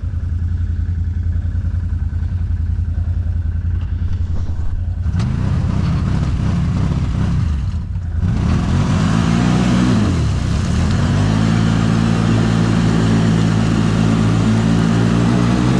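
ATV engine idling steadily, then revving up and down from about five seconds in, dropping briefly near the middle and then running steadily at higher revs.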